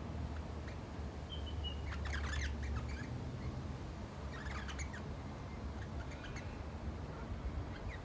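Wild birds in the treetops giving short, harsh squawking calls in a few separate bursts, with a brief high whistle about a second in, over a steady low rumble.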